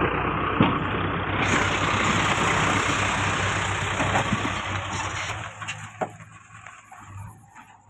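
Tractor diesel engine running steadily and loudly, then dying away sharply after about five seconds, with a few knocks as it fades.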